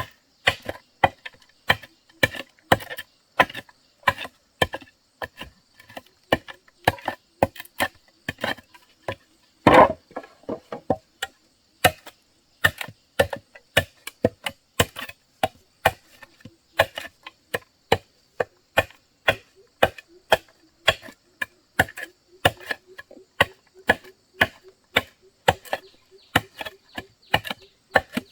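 A hand tool striking wood in a quick, steady run of blows, about two to three a second, with one heavier blow about ten seconds in.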